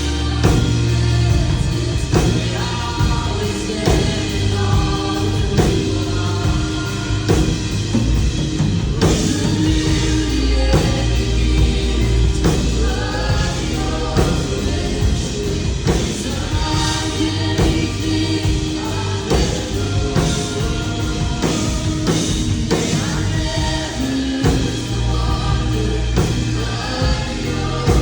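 Live worship music: a band with drums and bass playing while a group of voices sings.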